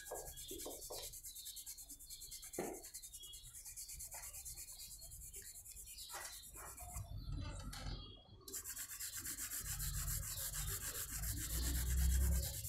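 Wooden colored pencil rubbing back and forth on paper while shading, a quiet run of quick scratchy strokes.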